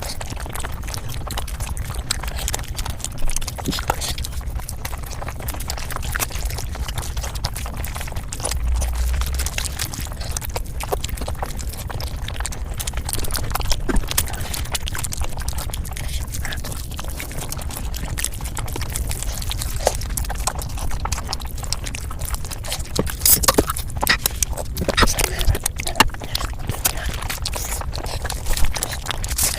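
Mukbang eating sounds played at five times speed: a fast, dense run of wet chewing, smacking and crunching clicks over a low hum, with a louder stretch of crunches near the end.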